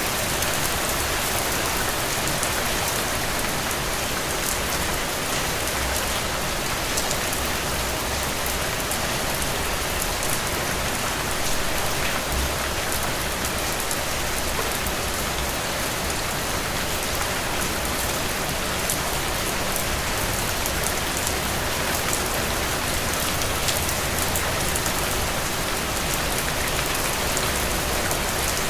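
Heavy, steady rain falling on ground and puddles, a dense even hiss with the patter of individual drops.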